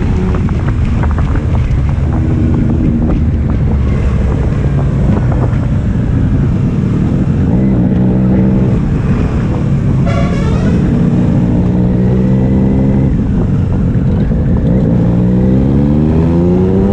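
Triumph Street Triple's inline-three engine and exhaust under way, the revs rising and falling with the throttle and shifts, with wind on the microphone. About ten seconds in there is a brief higher warbling sound, and near the end the revs climb sharply as the bike accelerates.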